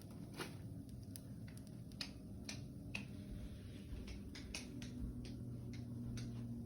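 Wood fire crackling in a fireplace: irregular sharp pops and snaps. A low steady hum comes in under it about two-thirds of the way through.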